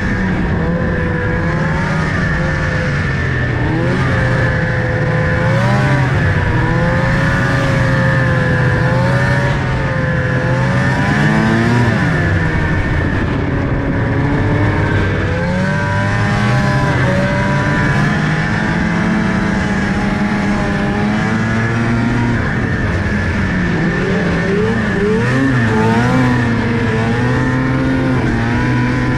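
Vehicle engine running while driving, its pitch rising and falling repeatedly as the speed changes, with a steady high whine over it.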